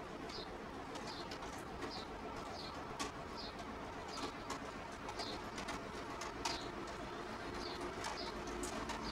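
A bird chirping over and over: short high chirps a little more than once a second, with a few faint clicks among them.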